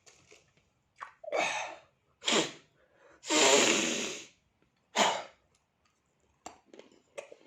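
A man's sharp, breathy exhales and gasps after a swig of vodka, the burn of the spirit: several short bursts of breath, with one longer, loudest exhale about three seconds in. Faint mouth clicks follow near the end.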